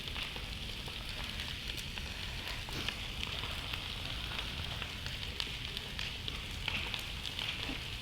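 Campfire burning: a steady hiss with scattered sharp crackles and pops from the burning wood.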